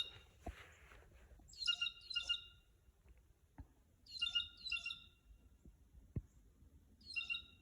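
Blue jay giving harsh scolding calls in pairs, each pair about two and a half seconds after the last, three times. The bird is scolding a person standing too close to the feeder.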